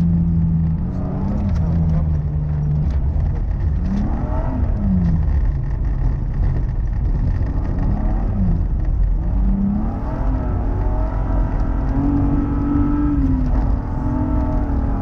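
Rally car's engine heard from inside the car at speed, its revs rising and falling several times as the driver accelerates, lifts and shifts through the stage, with steady road noise underneath. It runs at a higher, steady pitch towards the end, after a brief lift.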